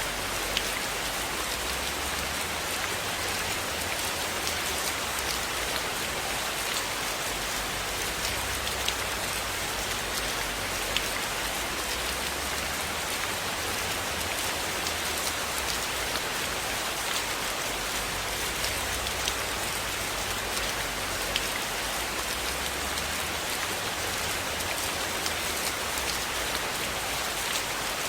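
Steady rain falling, an even hiss with occasional small sharp clicks scattered through it.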